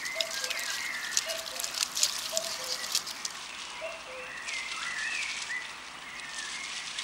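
Birds chirping in repeated short calls, with light splashing of water.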